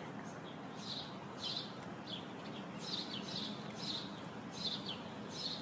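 Small bird chirping repeatedly: short high chirps, each dropping quickly in pitch, about two a second, over a faint steady background hiss.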